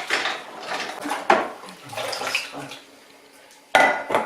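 Water splashing in a sink as dishes are washed by hand, with dishes clinking against each other; two sharp clinks of crockery near the end.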